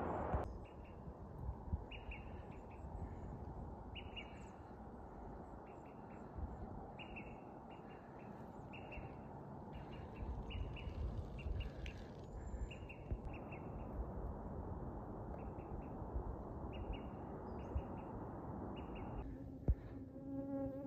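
A bird calling with short chirps, repeated in quick clusters throughout, over a steady rushing hiss. Near the end an insect buzzes close by.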